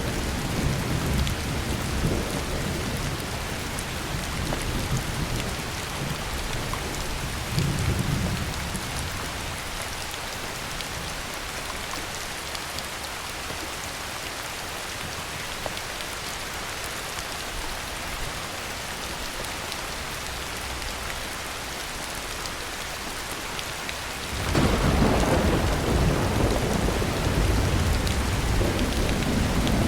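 Heavy rain falling steadily in a thunderstorm, with low rolls of thunder. Distant rumbles fade out in the first few seconds and swell again briefly about eight seconds in. A louder roll of thunder breaks in suddenly near the end and keeps rumbling.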